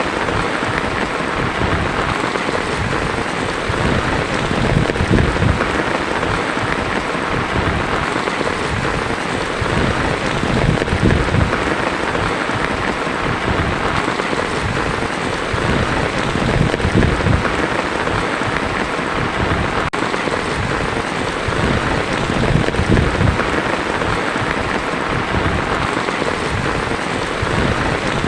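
Heavy rain drumming steadily on a tin roof: a dense, unbroken hiss of drops, with low rumbling that swells and fades every few seconds underneath.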